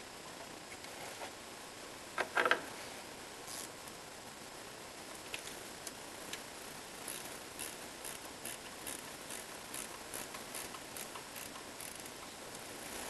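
Metal hand tools and parts clinking during work on the engine: a short clatter about two seconds in, then light ticks at about two a second through the second half.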